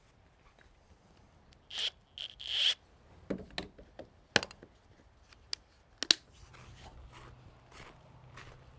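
Two short rasping scrapes about two seconds in, followed by a scatter of sharp clicks and knocks.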